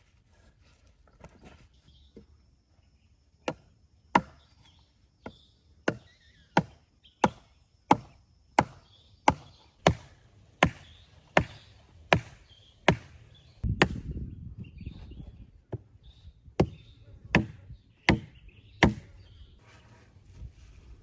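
Axe chopping wood: a steady run of sharp strikes, about one and a half a second. Near the middle the strikes break off for a low rumbling thud, then resume for a few more blows.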